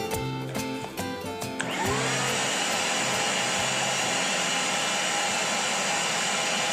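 Fujihama vacuum cleaner switched on. Its motor spins up with a rising whine and then runs steadily, with a whining rush.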